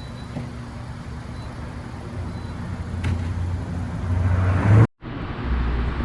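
Single-turbo Nissan 350Z's V6 engine running with a low drone that grows louder about four seconds in. It breaks off suddenly at an edit near the end, and engine sound carries on after it.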